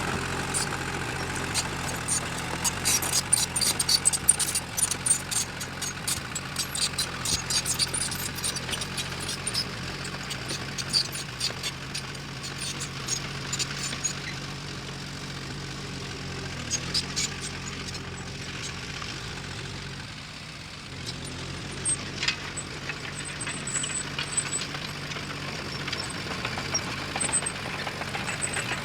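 Diesel engine of heavy earthmoving machinery running steadily, with rapid metallic clicking and clanking through the first half and a few short high squeaks near the end.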